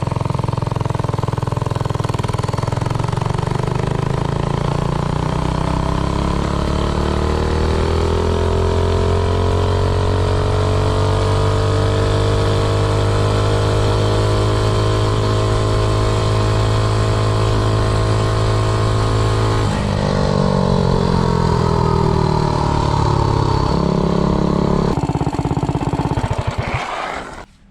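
Modified Predator 212 single-cylinder engine on a minibike at full throttle, its note climbing for about ten seconds and then holding steady at top speed. About twenty seconds in the throttle comes off and the note drops, shifts lower again a few seconds later, and the engine sound cuts off just before the end.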